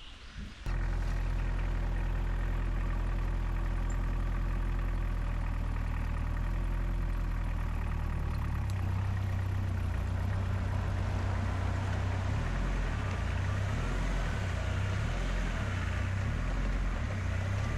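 UTV engine running under load while it pulls on a cable run through a pulley block. The engine sound starts abruptly just under a second in. About halfway through its low drone grows heavier, and from then on it pulses unevenly.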